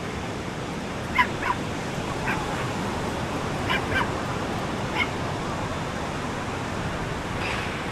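A dog barking in short barks, about six times in the first five seconds, over the steady wash of surf.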